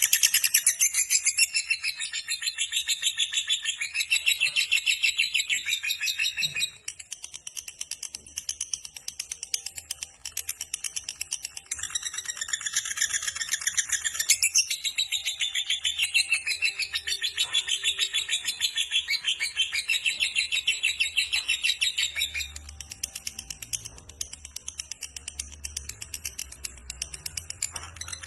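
Lovebird giving its long 'ngekek' chatter: a fast, unbroken run of high, rapidly repeated chirps held for many seconds at a time. It drops for a few seconds at about seven seconds in and again after about twenty-two seconds.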